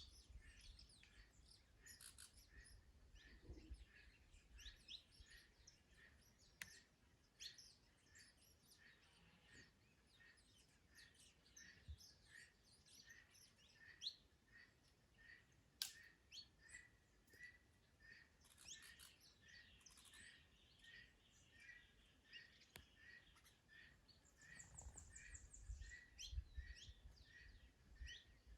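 Faint birdsong from several birds: one repeats a single short note about twice a second throughout, while others chirp and twitter over it. Low wind rumble on the microphone just after the start and again near the end.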